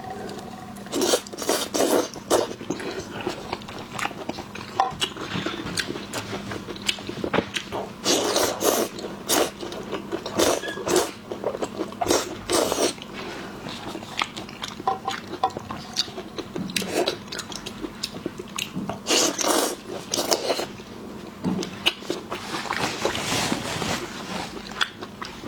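Shell-on shrimp being cracked, peeled and eaten: irregular crunches, clicks and crackles of shell with chewing, over a faint steady hum.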